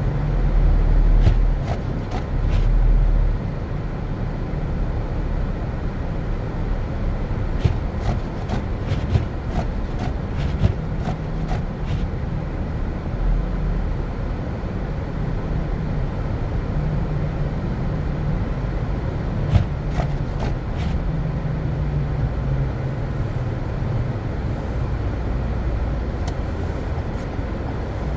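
Car driving on a snow-covered road: a steady low rumble of engine and tyres, a little stronger in the first few seconds, with scattered light clicks and ticks.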